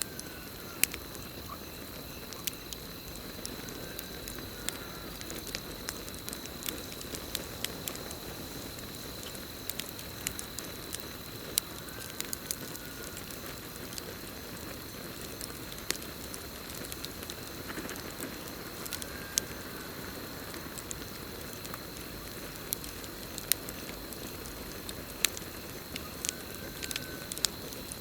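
Campfire burning: a low hiss of flames with sharp crackles and pops every second or so. A steady high cricket trill runs behind it, and a faint short call recurs every few seconds.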